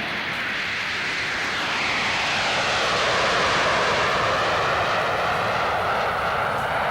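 Jet aircraft flying past: the engine noise swells to a peak midway, and its whine falls steadily in pitch as the aircraft passes.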